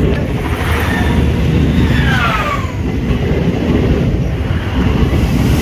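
Train running past, a loud steady rumble.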